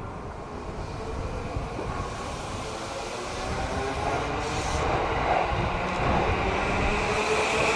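Electric train running on the rails: a steady rumble with a few whining tones, growing louder over the last few seconds as a train draws near.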